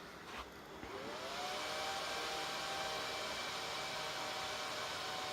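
Dell R210 rack server powering on: a click, then its cooling fans spin up about a second in, a rising whine that levels off into a steady whir with a high tone.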